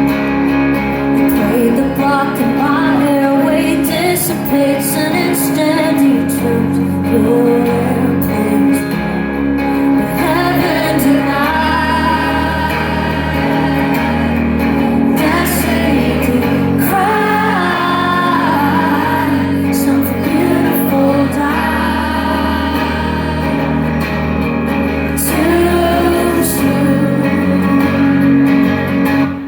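Live concert music: a woman singing a slow song over guitar and band, with sustained bass notes, echoing in a large hall.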